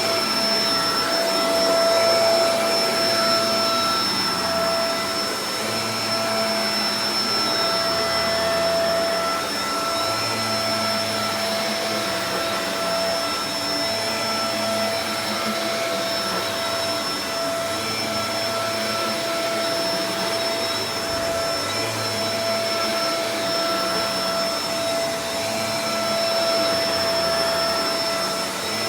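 Shark Professional Powered Lift-Away DLX (NV586) upright vacuum cleaner running steadily, a whirring motor whine over rushing airflow, with a slight wavering in the low rumble.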